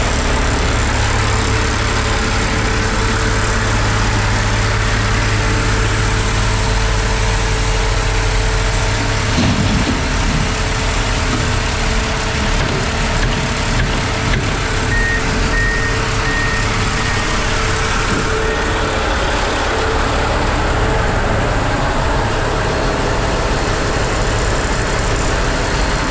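Semi truck's diesel engine running at low speed while the truck is backed into a tight spot, its note changing about ten seconds in. A backup alarm beeps about four times a little past the middle.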